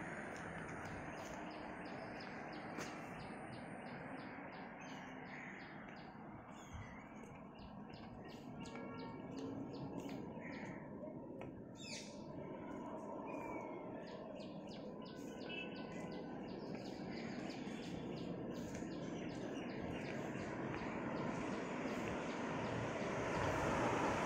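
Bird chirping: runs of short, high chirps, several a second, over a steady background rush that grows louder near the end.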